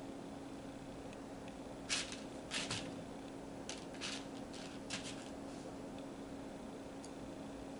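Short dry rustles and clicks of Cheerios being handled and slid onto a pipe cleaner, a cluster of them between about two and five seconds in, over a steady low hum.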